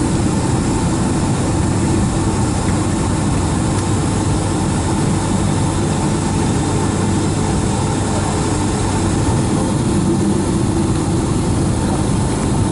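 Cabin noise of a Boeing 757-200 on the ground with its jet engines at idle: a steady low rumble with a faint even hum.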